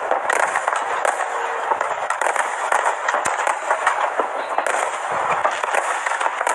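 Aerial fireworks crackling: many small pops overlapping into a dense, continuous crackle.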